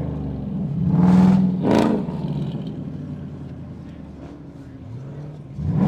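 A car engine revving: a climb to a loud rev about a second in that fades away through the middle, then a fresh climb near the end.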